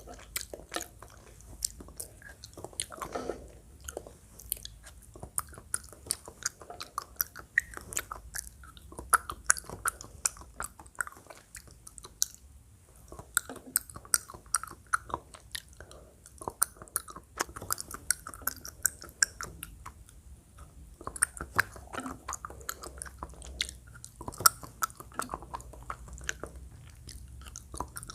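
Close-miked eating sounds, deliberately loud: chewing with many sharp, irregular mouth clicks, pausing briefly now and then.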